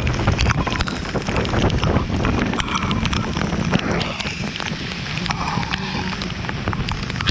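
Wind rushing over the microphone on a moving motorcycle in the rain, a steady dense rush with many sharp ticks through it.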